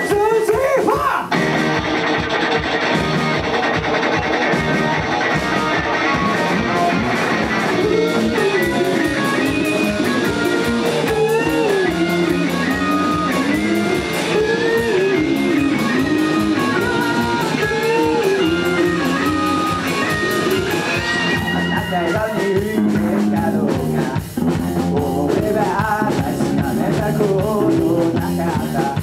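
Rock band playing live: electric guitars, bass and drum kit, with a winding melodic lead line through the middle of the passage.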